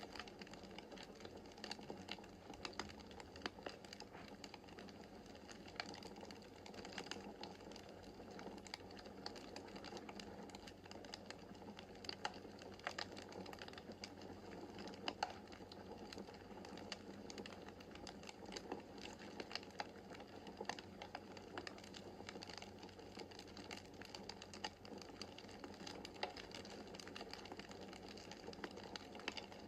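Wood fire burning in a fireplace: a steady low rush of flames with many small irregular crackles and snaps, a few sharper pops among them.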